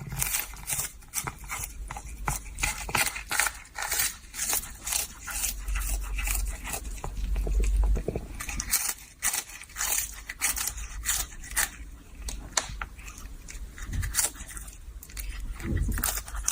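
Rapid scraping and crunching noises, many short strokes a second, with a low rumble partway through.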